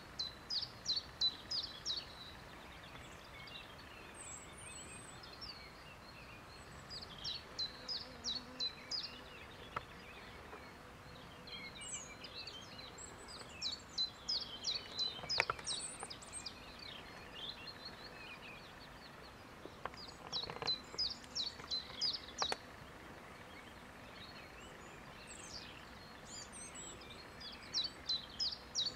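A songbird singing a short phrase of quick, high repeated notes, about two seconds long, five times at intervals of about six to seven seconds, with softer twittering between phrases over a steady outdoor background.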